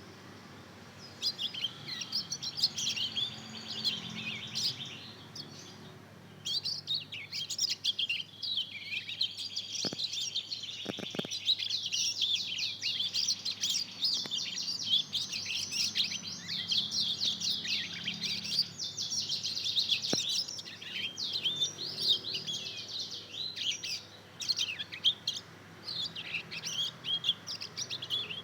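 A two-month-old mozken, a hybrid of a yellow-fronted canary and a domestic canary, warbling a rambling run of rapid high chirps and twitters. This is the young bird's practice song as it learns to sing. The song comes in two long stretches, with a short break about six seconds in.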